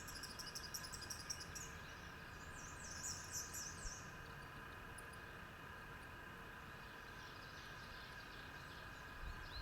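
Bay-breasted warbler singing very high, thin, rapid repeated notes, twice, with a short snatch again near the end. Under it runs a faint steady drone of even tones.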